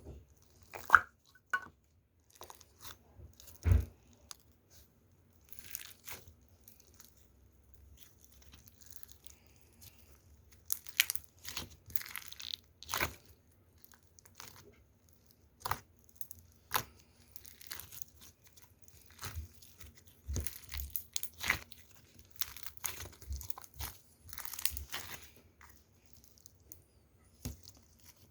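Foam ball slime being worked, giving irregular crunches and crackles of the foam beads along with small air-bubble pops.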